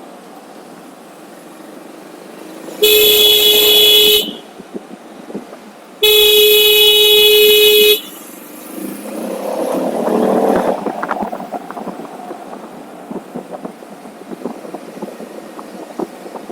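A vehicle horn sounds two steady blasts, one short and one about two seconds long, over steady road noise while riding. Engine noise then swells and fades.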